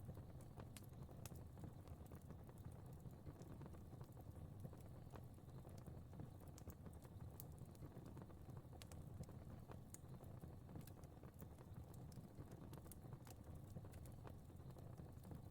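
Fire crackling faintly: irregular small pops and snaps over a low, steady rumble of burning.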